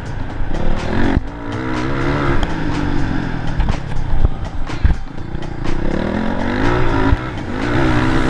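Motocross motorcycle engine revving up and down repeatedly under changing throttle, with a few dull low thumps.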